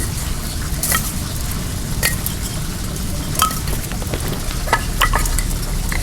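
Wood bonfire crackling, with scattered sharp pops and snaps and a small cluster near the end, over a steady rush of flowing well water.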